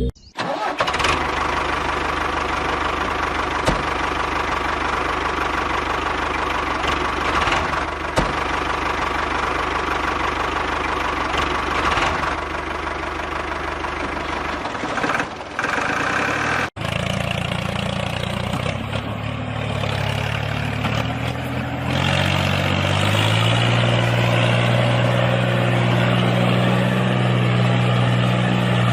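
A motor running steadily with a rough, even noise. After a sudden cut about 17 s in it changes to a steadier low hum, whose pitch steps up about 5 s later.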